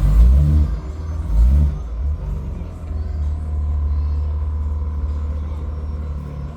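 Car engine rumbling, revving up briefly twice in the first two seconds, then running steadily.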